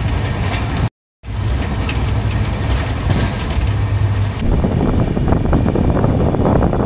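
Express train running, heard from inside a passenger coach: a steady low rumble, cut briefly by a dropout about a second in. Just after four seconds it changes to a denser, busier clatter.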